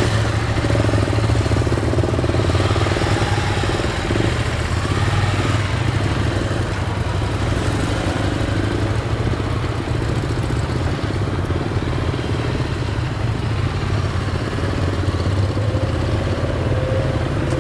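Motorcycle engine running steadily, its pitch drifting slightly up and down.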